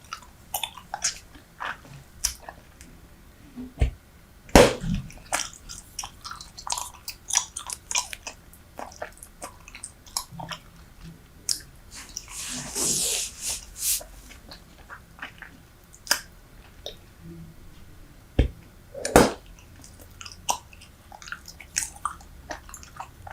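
Super Bubble bubble gum chewed right up against the microphone: wet smacks and clicks, with two sharper, louder pops about four and a half seconds in and near nineteen seconds.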